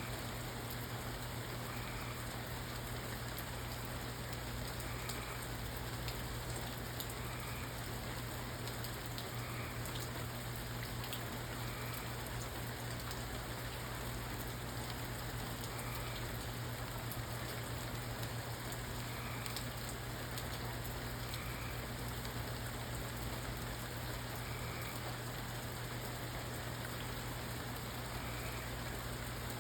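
Steady rain falling, an even hiss with scattered drops ticking, over a steady low hum. No thunder is heard.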